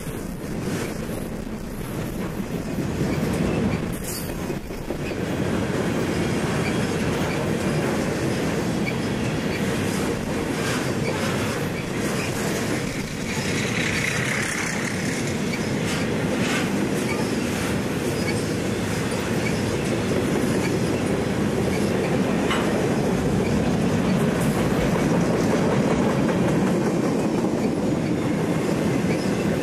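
Conrail intermodal train of flatcars loaded with highway trailers rolling past close by: a steady rumble of steel wheels on rail, with clacking as wheels cross rail joints now and then.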